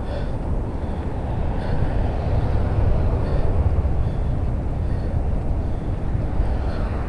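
Wind rumbling on a bike-mounted action camera's microphone while riding, a steady low noise. A faint high chirp repeats about every second and a half.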